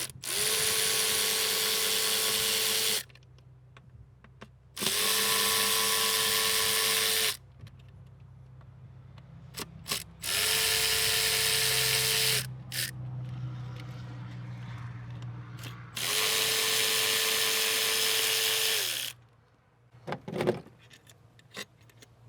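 A power tool spinning out the four 10 mm bolts that hold a throttle body to the intake manifold: four runs of a steady motor whine, each two to three seconds long, with small clicks and rattles in the pauses between them.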